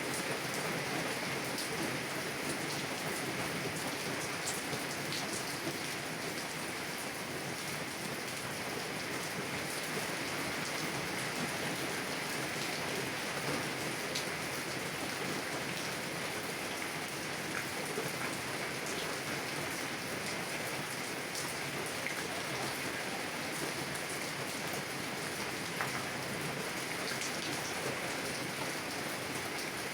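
Heavy rain drumming on a car's roof and windows, heard from inside the car: a steady hiss of rain with many small scattered drop ticks, unbroken throughout.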